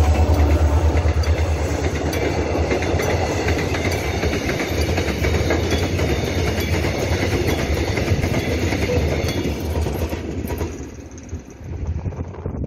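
Diesel freight locomotive passing close with a heavy low engine drone, followed by a long string of tank wagons rolling by, their wheels clicking and rattling over the rail joints. The sound drops away sharply near the end as the train pulls off into the distance.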